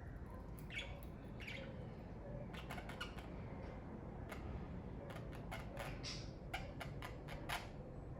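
Pet budgerigars chirping and squawking in many short, scattered calls over a low steady background hum.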